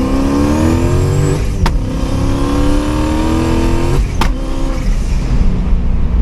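Turbocharged Coyote 5.0 V8 of a 2015 Mustang pulling hard, its pitch rising through a gear, then breaking at an upshift about a second and a half in with a short sharp crack. It pulls again, rising to a second shift about four seconds in, again with a sharp crack, then drops to a lower, steadier note.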